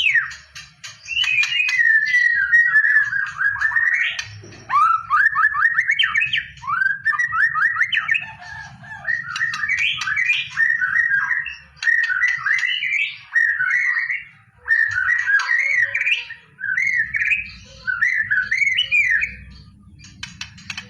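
White-rumped shama singing a long run of rapid, whistled warbles and trills, broken by short pauses every few seconds.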